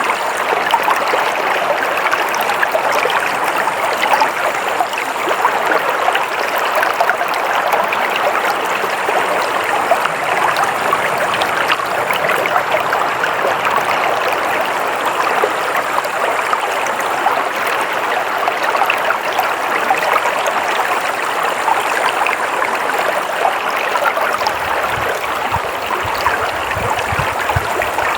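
A stream of water flowing over rocks, a steady babbling rush with a faint low rumble joining near the end.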